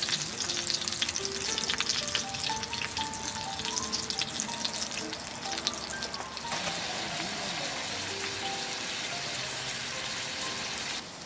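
Food sizzling and crackling in a hot pan, over light background music. About six and a half seconds in, the crackle changes abruptly to a steadier, softer hiss.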